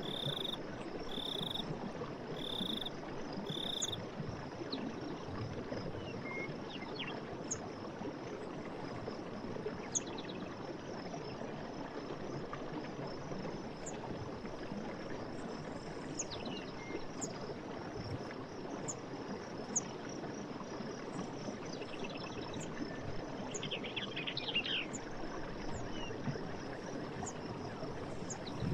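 Running water from a forest stream making a steady rush, under a constant high insect trill. Birds chirp briefly here and there, with a run of evenly spaced calls in the first few seconds and a short burst of calls a little after the middle.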